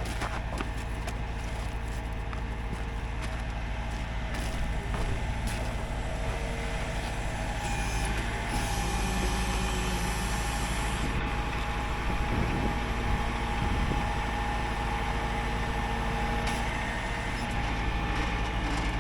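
Rollback tow truck's engine running steadily, with a steady whine over it that strengthens about eight seconds in and a brief hiss of air a little after.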